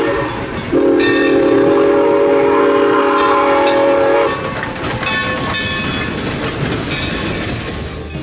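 A locomotive's multi-note chime whistle sounds twice: a blast ending just at the start, then a long blast of about three and a half seconds. After it, the train's running noise and rail clatter continue.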